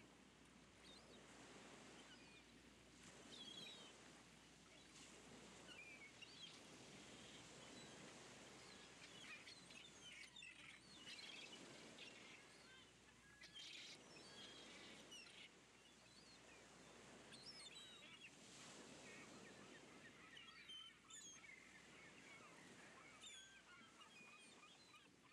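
Near silence: faint outdoor ambience with scattered bird chirps.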